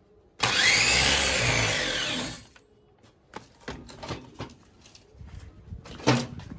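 A power tool, most likely an angle grinder, cuts into the welded steel plate for about two seconds, its whine rising and falling under load. It is followed by light metal clatter and a sharp knock as the piece is handled.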